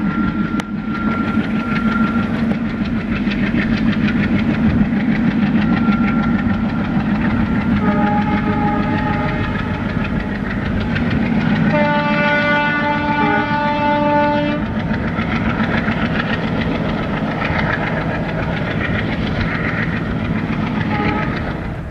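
Train running with a steady rumble and wheel noise. A locomotive horn sounds faintly about eight seconds in, then blows loud and steady for about two and a half seconds around twelve seconds in.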